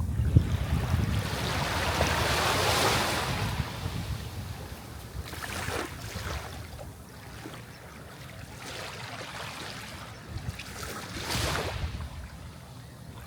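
Sea waves breaking and washing on the shore: one large surge in the first few seconds, then smaller waves rushing in about halfway through and again near the end, over a low wind rumble on the microphone.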